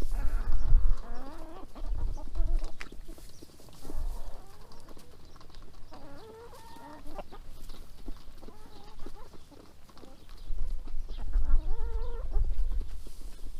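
Backyard hens clucking and calling as they feed, in three bouts, with low rumbling bumps underneath.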